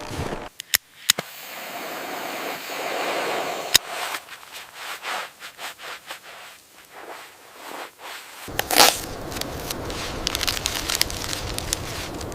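Sharp cracks and snaps over a crackling noise, the loudest crack about three-quarters of the way through. The low background rumble drops out suddenly near the start and cuts back in abruptly late on.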